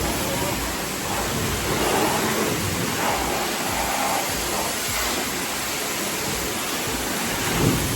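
Steady hiss of water spraying, a car-wash pressure washer.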